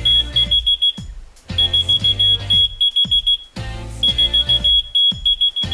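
Whistle-activated key-finder keychain beeping: rapid high-pitched electronic beeps from its small speaker, in three bursts of about two seconds each with short pauses between them.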